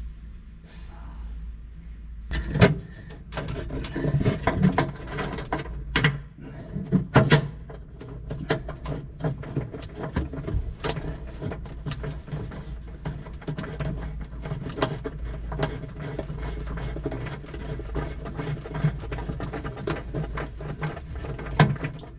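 Clicks and knocks of hands and tools working metal fuel-line fittings in a cramped space as a line is threaded onto a fuel shutoff valve, with a few louder knocks early on, over a steady low hum.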